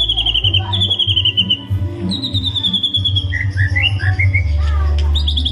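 White-rumped shama (murai batu) singing: fast repeated trilled phrases, each dropping slightly in pitch, broken by a few rising chirped notes a little past halfway. A low steady hum runs underneath.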